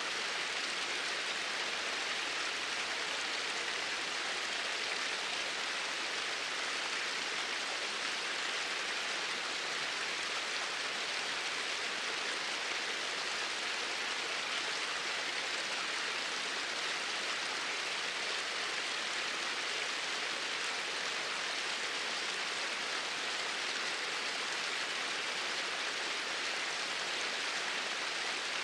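Flowing water, a steady even rush with no change in level.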